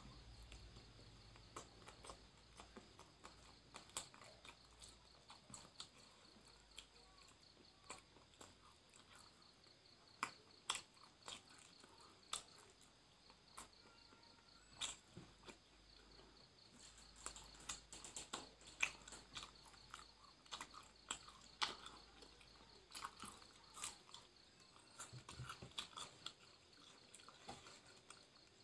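Close-up eating sounds of a person eating rice and grilled tilapia by hand: chewing and mouth smacks heard as soft, irregular clicks, busier in the second half.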